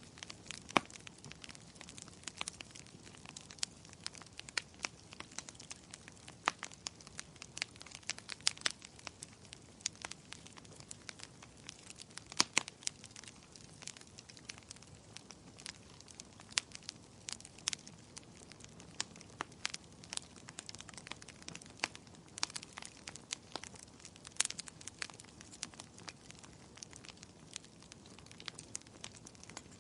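Wood fire in a fireplace crackling, with frequent irregular sharp pops and snaps from the burning firewood over a faint steady hiss.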